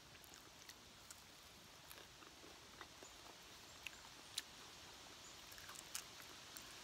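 Near silence: a faint background hiss with a few scattered small clicks and ticks.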